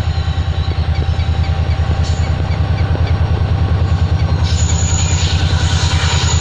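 A train passing on the railway bridge, with a loud, rapid, steady throb underneath. A hiss with a thin high squeal comes in about four and a half seconds in.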